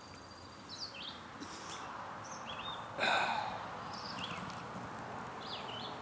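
Small birds giving short high chirps several times over a steady outdoor hush, with a brief loud rustle and knock about three seconds in.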